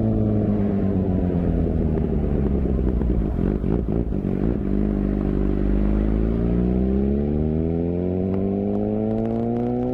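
Suzuki GSX-R750 inline-four engine and exhaust, its note falling steadily as the bike slows. The note turns ragged for about a second around four seconds in, then rises steadily as it accelerates again.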